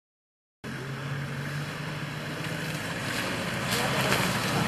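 Silence for about half a second, then a four-wheel drive's engine running at low speed under a steady hiss of outdoor noise, slowly getting louder.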